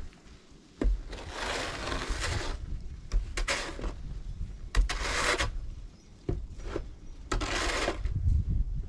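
A shovel scraping and scooping snow off a deck in four strokes, each a rough swish, with a couple of sharp knocks of the blade against the boards.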